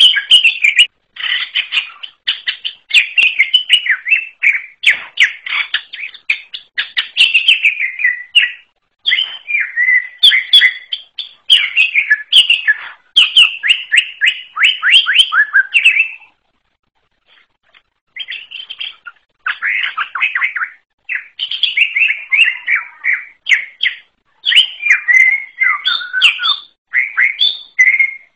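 Cucak ijo (greater green leafbird) singing: long, varied runs of rapid chirps and quick sweeping notes, broken by a pause of about two seconds past the middle before it starts again.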